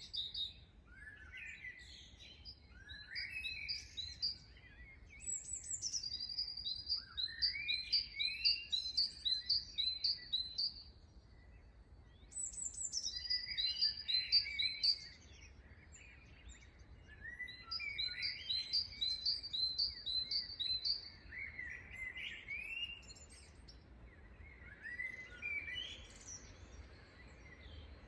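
Several wild birds singing. One bird repeats a phrase three times: a high down-slurred note, then a quick series of repeated notes, about two a second. Shorter rising chirps from other birds fill the gaps.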